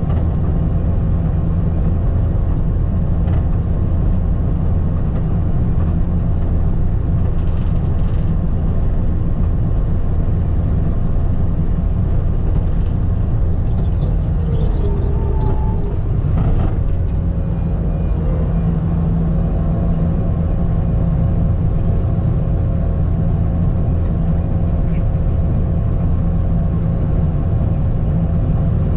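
Skid steer engine running steadily under load, a deep, even drone, with a brief wavering tone and a short knock about halfway through.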